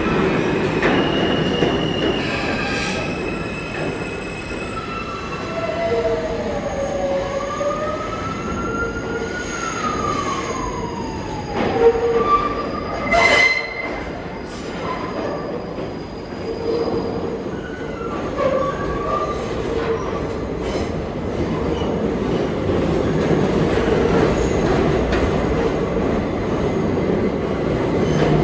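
New York City subway train moving through the station: a steady rumble of wheels on the rails, with a whine that slides down and then up and down again in pitch during the first half. Two sharp clanks come about halfway through.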